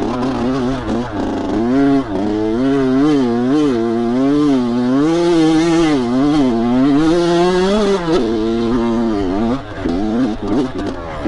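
Dirt bike engine revving up and down as it is ridden, its pitch rising and falling about once or twice a second, easing off briefly near the end.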